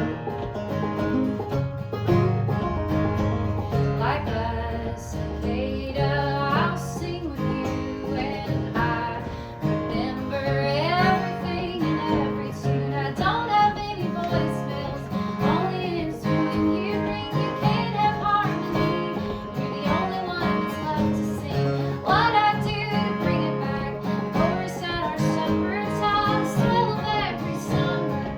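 Live acoustic folk string-band music, plucked guitar and banjo, with a melody line that slides between notes over a steady beat.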